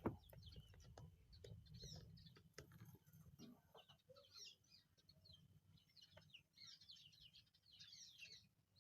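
Faint chirping of small birds: many quick, high chirps scattered throughout, over a low background rumble.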